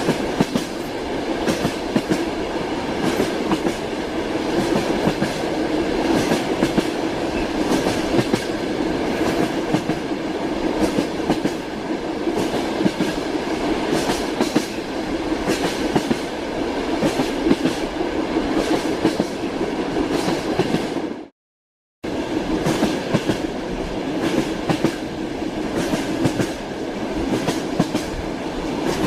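Train wheels clattering steadily over the rail joints, heard from inside a moving railway carriage, over a steady running rumble. About twenty-one seconds in, the sound drops out to silence for under a second, then resumes.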